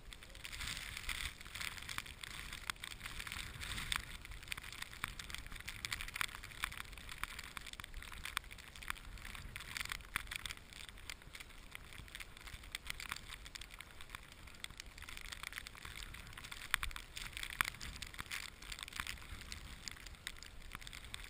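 Footsteps crunching through deep snow, a dense, irregular crackle that keeps on without a break.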